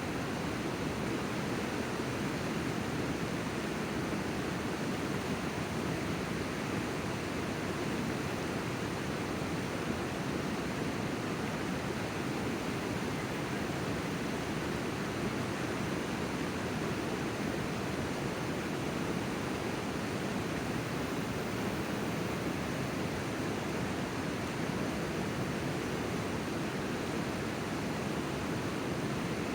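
River water rushing in a steady, even stream with no breaks.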